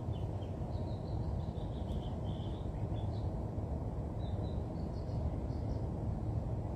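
Small birds chirping in short, scattered high notes over a steady low background rumble.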